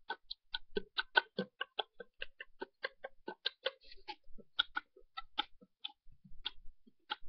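Typing on a computer keyboard: a quick, irregular run of light key clicks, about four or five a second.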